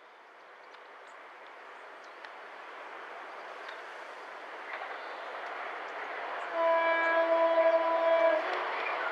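A GB Railfreight Class 66 diesel locomotive hauling a container train approaches, its engine and wheel noise growing steadily louder. About two-thirds of the way through it sounds its horn once, a single steady note held for nearly two seconds, the loudest thing heard.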